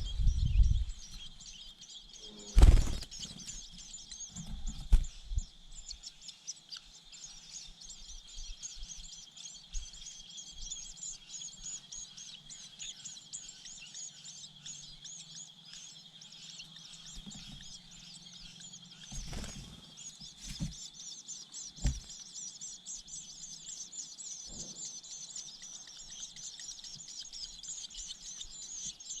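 Continuous high, dense chirping of birds, broken by a few short dull knocks, the loudest about three seconds in.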